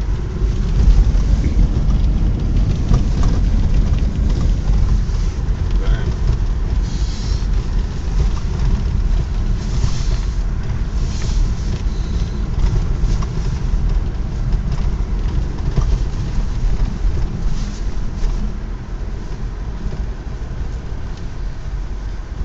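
Car driving on a snow-covered road, heard from inside the cabin: a steady low engine and road rumble, with a few brief hisses over it.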